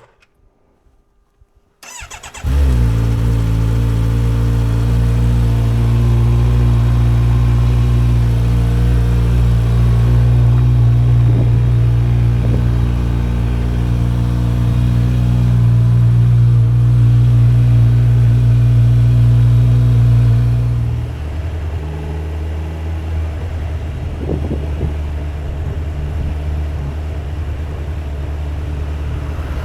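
A 2025 Kawasaki Z900's 948 cc inline-four is cranked on the starter and catches about two seconds in, then idles steadily. About twenty seconds later the idle drops to a lower, quieter note and settles there.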